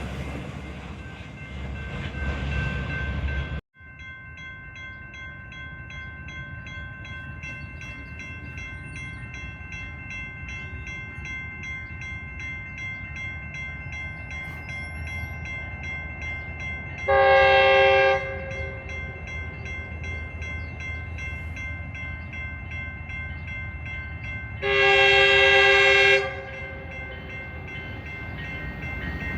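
A passing train rumbling, cut off suddenly, then a locomotive horn sounding two blasts about seven seconds apart, the second longer, over a steady high ringing tone. A third horn blast starts at the very end.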